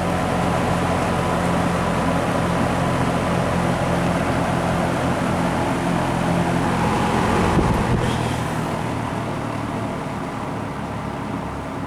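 2007 Lakewood P-25 box fan running steadily on medium speed, a motor hum under the rush of air from the blades. About eight seconds in there is a short click, and the fan slows and grows quieter, dropping to a lower speed.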